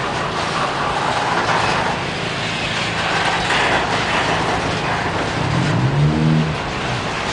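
A slow freight train rolling past with a steady rush of wheel and rail noise over a low hum. About six seconds in, an engine briefly rises in pitch and then holds.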